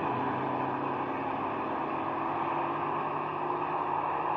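Car engine running steadily, its pitch climbing slightly over the first few seconds.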